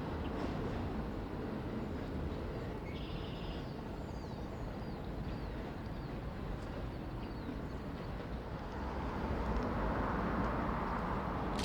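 Steady outdoor background rumble, with small birds chirping a few seconds in. From about nine seconds a Staten Island Railway train grows louder as it approaches, its rumble and hiss rising.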